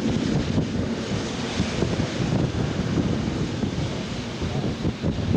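Strong wind buffeting the microphone: an uneven, gusty low rumble with a hiss above it.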